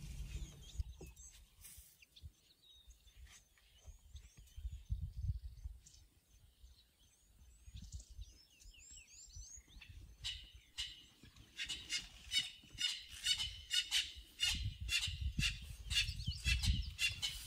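Birds calling in the bush, with scattered faint chirps and then, from about ten seconds in, a quick repeated chirping call about two to three times a second. Irregular low thumps and rumbling run underneath.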